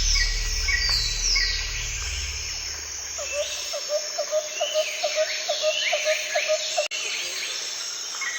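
Rainforest birds calling, with many chirps and sweeping whistles, and a low call repeating about three times a second through the middle. A low hum underneath ends about halfway through.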